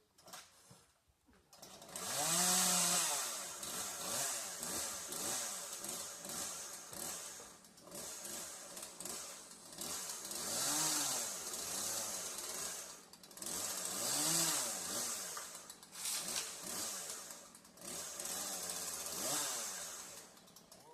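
Chainsaw running, starting about two seconds in and revving up and dropping back several times.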